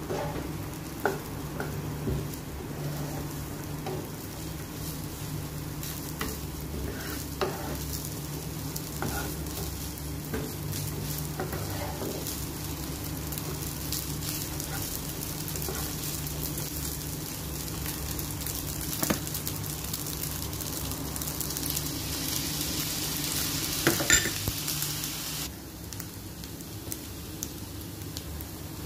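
Fried rice sizzling in a hot pan while a spatula turns it, with scattered scrapes and taps of the spatula against the pan, a cluster of louder ones a little before the end. A steady low hum runs underneath, and the sizzle and hum drop away suddenly near the end.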